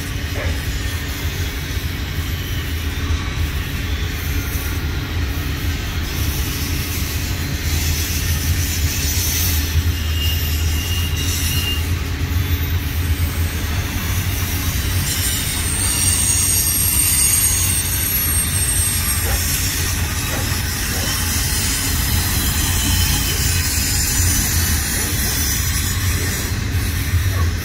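Double-stack container well cars of an intermodal freight train rolling past: a steady low rumble of steel wheels on rail, with thin high wheel squeals coming and going.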